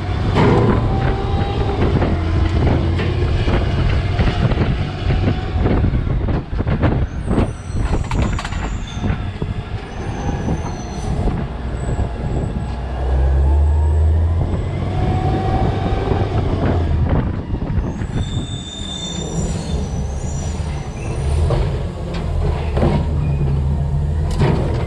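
DaDee Scorpion rear-loader garbage truck packing trash in its hopper: the packer blade's hydraulics whine and the metal squeals as bags and boxes are crushed, with repeated crunches and bangs over the steady hum of the truck's CNG engine.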